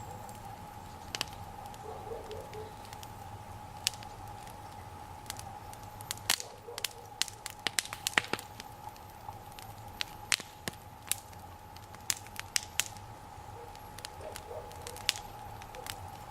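Bonfire of raspberry canes and dry boards crackling, with sharp, irregular pops that come thickest in the middle.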